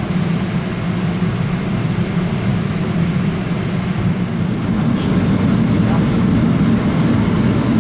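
Boeing 777-200ER engine start heard from inside the cabin: a steady low rumble that grows louder about five seconds in as the engine spools up.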